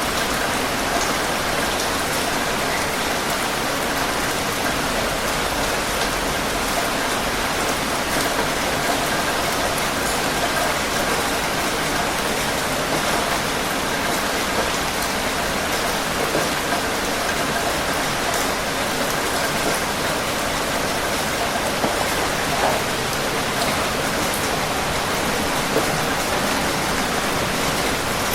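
Steady heavy rain falling and pattering on surfaces, an even dense hiss with fine drop ticks throughout.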